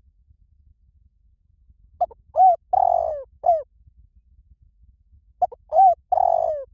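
Spotted dove cooing: a phrase of four low coos, the third one drawn out, given twice about three and a half seconds apart.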